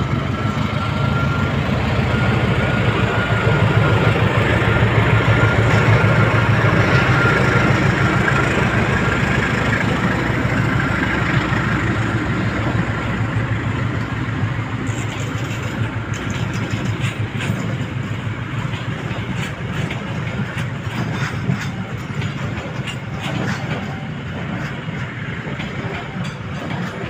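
Train running on the rails: a steady rumble with the wheels clicking over rail joints. The clicks grow clearer in the second half, and a faint high squeal is heard through roughly the first ten seconds.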